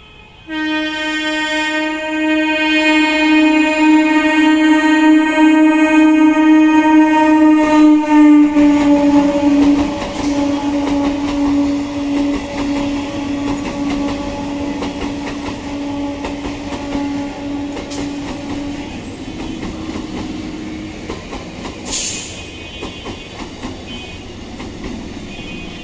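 EMU local train sounding one long horn blast as it approaches and runs past. The horn's pitch drops a little about eight seconds in as the train goes by, and the horn fades out after about nineteen seconds, leaving the rumble and clickety-clack of the coaches rolling past.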